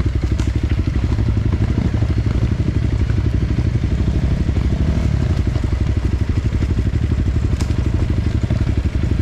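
Enduro motorcycle engine running steadily, a rapid, even beat of firing pulses.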